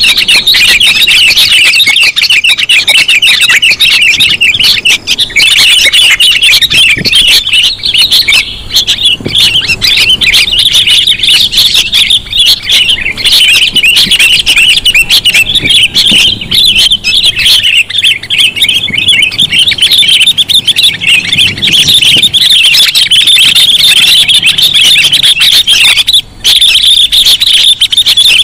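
Sooty-headed bulbuls (kutilang) chirping and chattering loudly and without pause, many quick calls overlapping into a dense chorus. It is a lure recording meant to draw wild bulbuls in. The calls drop out briefly about 26 seconds in.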